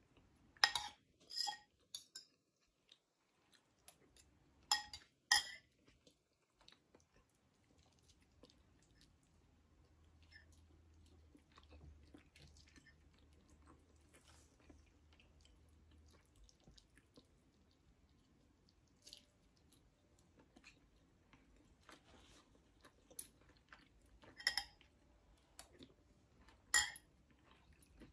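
Faint close-up eating sounds: a person chewing boiled chicken, with scattered sharp clicks and mouth smacks, grouped in the first two seconds, about five seconds in, and twice near the end.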